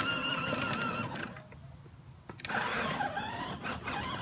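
Small electric motor of a child's ride-on toy tractor whining steadily, cutting out about a second in and starting up again about a second later.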